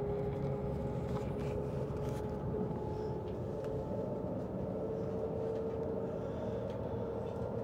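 Inside the cabin of the Shanghai maglev train as it accelerates: a steady low rumble with an electric hum from the train's high-voltage motor drive, its pitch stepping slightly higher about halfway through as the speed builds.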